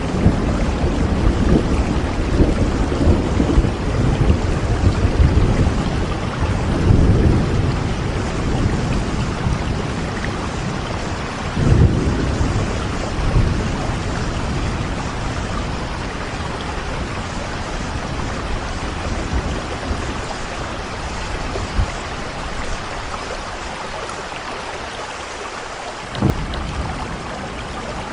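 Steady rain with a low rolling rumble of thunder that fades away over the first half. A few brief low thuds come later on.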